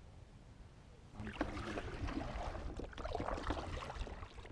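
Water splashing and lapping around a kayak on the water, with small knocks against the hull, starting about a second in after a quiet, low rumble.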